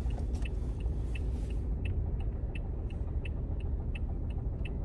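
Steady low road and engine rumble inside a moving car's cabin, with the turn-signal indicator ticking evenly about three times a second.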